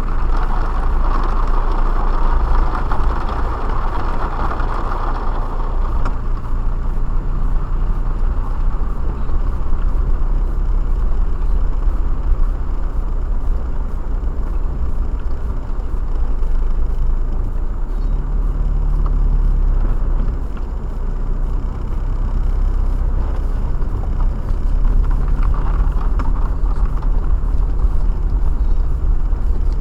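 Steady road noise inside a moving car's cabin: a low rumble of engine and tyres with a hiss on top, a little louder for the first six seconds or so.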